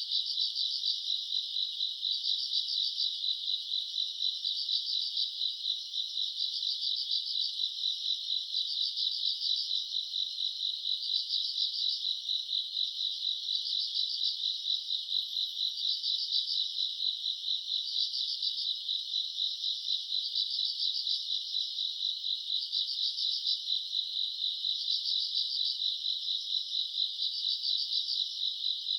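Chorus of summer-night grass insects such as crickets: a steady high-pitched trill with a pulsing chirp phrase repeating about once a second.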